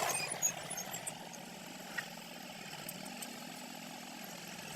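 Tractor engine idling with a steady low drone, louder in the first half second, with a single click about two seconds in.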